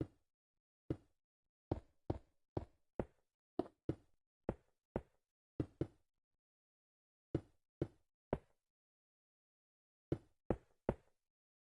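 Hammering: about seventeen sharp, separate blows in quick runs, with a pause of a second or so after the middle and another near the end.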